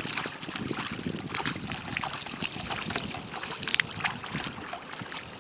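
Water splashing and sloshing, with many small irregular knocks and splashes.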